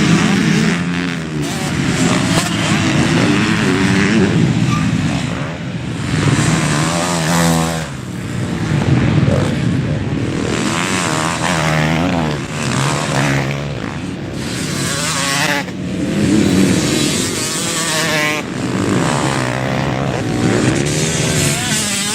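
KTM 450 SX-F motocross bike's single-cylinder four-stroke engine revving hard and backing off over and over, its pitch climbing and dropping as it goes through the gears and throttle changes.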